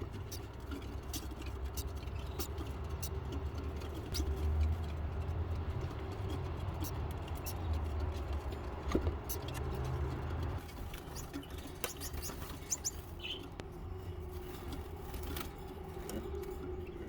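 Baby birds making brief high peeps and squeaks, with many small clicks and scratches of movement over a steady low hum.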